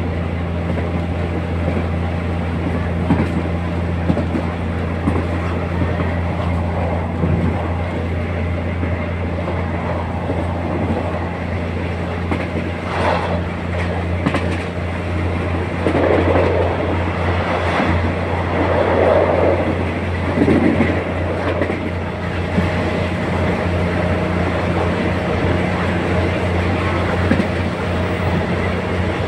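Train running along the line, heard from aboard: a steady low drone with an even rumble of wheels on rail.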